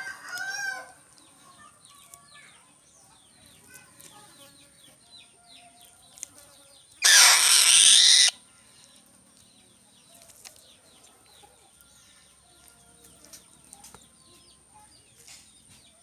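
A rooster's crow trailing off at the start, with faint small-bird chirps and a steady high whine throughout. About seven seconds in, a loud rushing burst lasts a little over a second, then cuts off.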